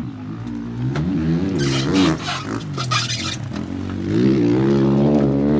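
Motocross bike engine revving, its pitch rising and falling in several blips, then held high from about four seconds in.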